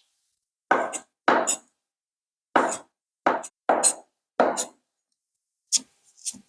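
About eight short, separate kitchen handling sounds, each under half a second, in an uneven rhythm with silence between them.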